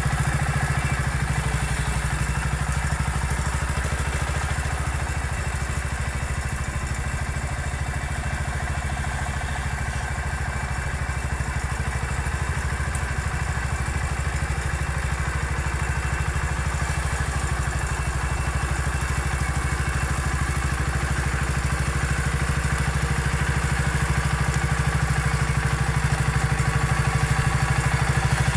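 Engine of an MF 14 bulldozer running steadily as it pushes the pile back. It gets a little quieter mid-way and louder again near the end.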